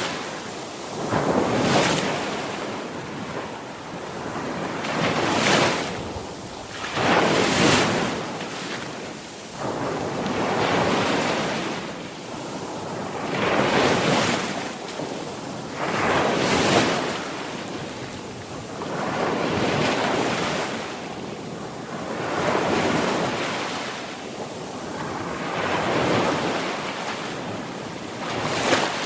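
Sea waves breaking and washing on the shore, the surf swelling and falling again every two to three seconds, with no voices or music.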